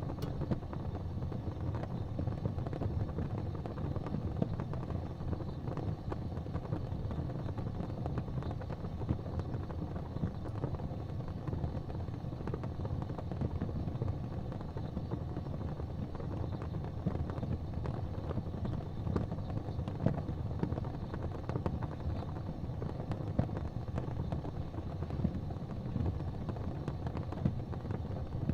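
Fire burning in a fireplace: a steady low rumble with scattered crackles and a few louder pops.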